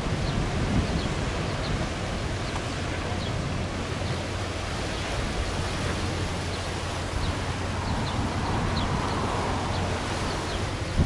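Strong wind blowing steadily and rumbling on the microphone.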